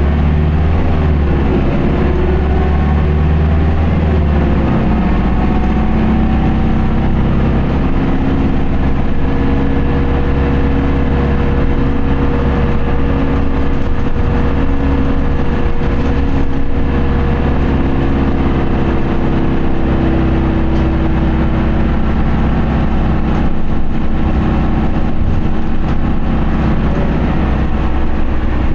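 Isuzu Erga city bus's four-cylinder turbo diesel heard from inside the cabin, pulling steadily with the automatic gearbox in POWER mode and held in 4th gear. The low engine note shifts about five seconds in, then holds a long, steady pitch.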